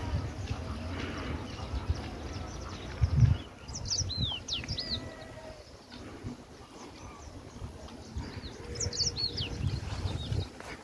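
Bird calls: two clusters of quick high chirps and whistles, about four seconds in and again near nine seconds, over a low rumble of wind on the microphone, with a strong gust about three seconds in.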